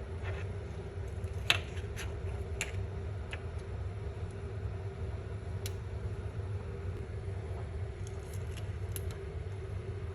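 A steady low background rumble and hum, with a few sparse light clicks and crackles of boiled eggshells being handled; the loudest click comes about a second and a half in.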